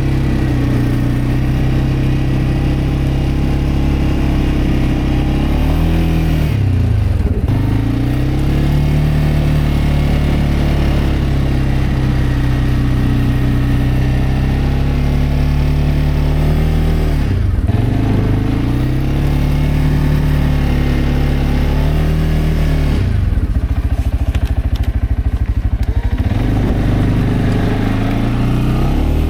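CFMoto CForce 520L ATV's single-cylinder engine running under load. The revs drop twice and pick up again, and near the end the engine settles to a slow, pulsing idle for a few seconds before revving back up.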